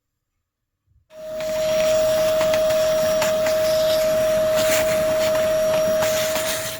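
A vacuum cleaner starts about a second in and runs steadily, a rushing noise with a strong high motor whine, cleaning dust out of the heater's inside. Faint scattered clicks come through on top.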